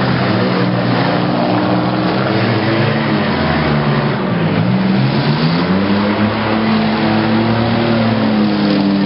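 Demolition derby cars' engines running and revving in a dirt arena. The engine note dips about four seconds in and climbs again.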